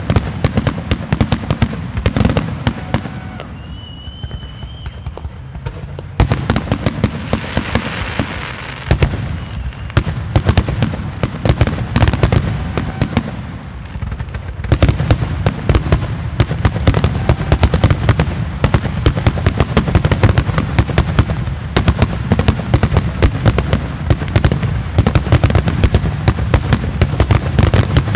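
Fireworks display: many sharp bangs and crackling reports in quick succession, with a brief whistle about four seconds in. Two short lulls break the firing, and from about halfway on it runs as a near-continuous barrage.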